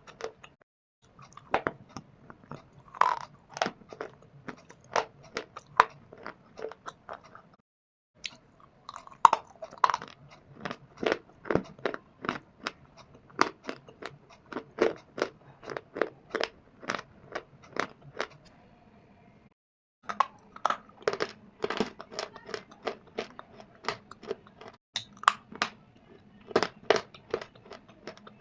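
Dry shale stone and clay (mitti) being bitten and chewed close to the microphone: a rapid run of sharp, brittle crunches. The crunching breaks off into silence three times for under a second, about a second in, about eight seconds in and about twenty seconds in, where clips are cut together.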